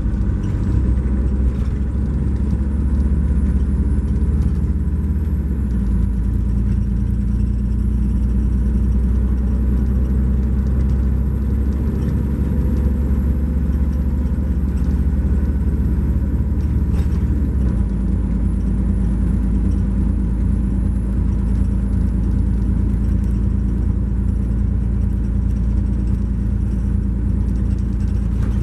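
Cummins ISX12 diesel engine of a 2012 MCI J4500 coach running, its low note shifting about six seconds in and again near eighteen seconds, with a faint steady high whine over it.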